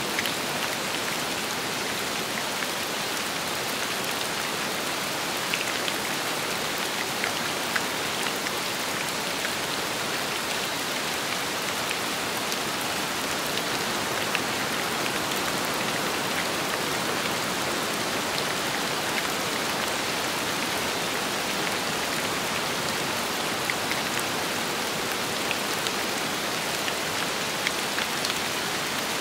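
Steady rain falling, an even hiss with scattered close drops ticking out.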